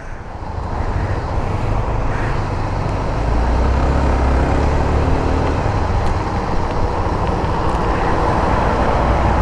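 150cc motorcycle riding on the road, its engine note under a steady rush of wind noise. The engine and wind grow louder about three seconds in as the bike picks up speed.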